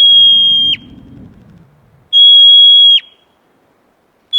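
An animal's high whistle-like call, each note held steady for just under a second and then dropping sharply in pitch, given twice, with a third note starting near the end.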